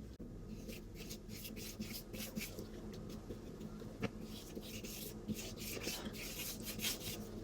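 Paintbrush bristles scrubbing and stroking acrylic paint across gesso-primed mixed media paper, a run of short scratchy strokes with a single small tap about four seconds in.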